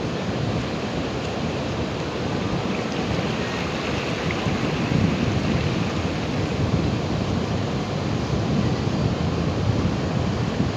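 Ocean waves breaking as a steady, continuous surf rush, heavy in the low end, with wind on the microphone.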